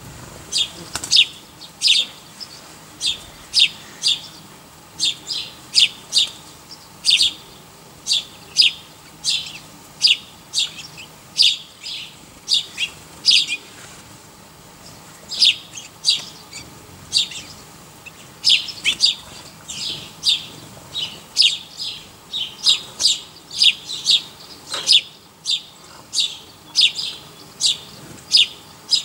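A bird chirping over and over in short, sharp, high chirps, about two a second, with a couple of brief pauses.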